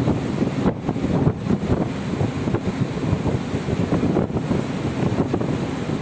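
Wind buffeting the microphone at sea: a loud, dense, uneven noise heaviest in the low end, with no distinct tones or separate events.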